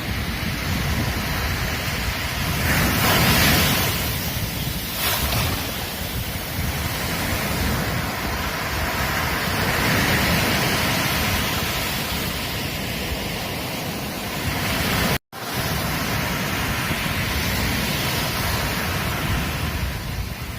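Ocean surf breaking and washing on a beach: a continuous rushing wash that swells as waves break, about three seconds in and again around ten seconds. The sound cuts out for an instant about fifteen seconds in.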